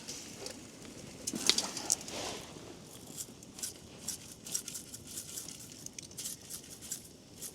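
Potatoes frying, with a steady crackle of sizzling and scattered clicks. A few louder scrapes and knocks of a utensil come about a second and a half to two seconds in.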